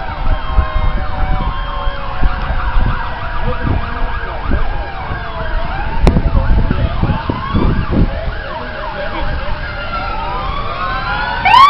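Several fire truck sirens wailing at once, their rising and falling tones overlapping, over a low rumble. Near the end a louder siren starts up close by, sweeping sharply upward.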